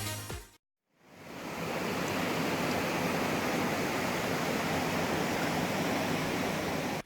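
Electronic background music fades out, and after a moment of silence a steady, even rushing noise fades in and holds.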